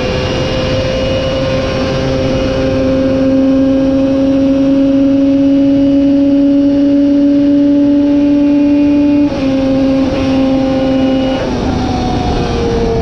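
Racing superbike engine at high revs, its pitch climbing slowly and steadily for about nine seconds. It then breaks off sharply a few times and the revs fall away near the end, as the throttle is shut.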